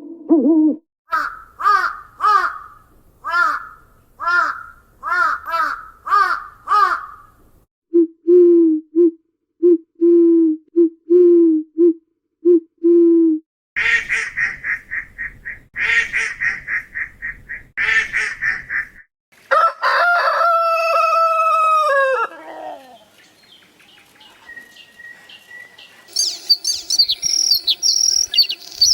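A sequence of different bird calls, one kind after another. About ten short, sharp calls come first, then a run of low, short calls, then three bouts of fast, rattling calls. A long call falls steadily in pitch, and high chirping song follows near the end.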